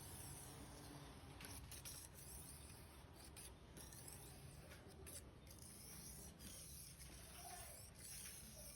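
Faint scraping of a Victorinox knife blade drawn repeatedly across a sharpener, stroke after stroke.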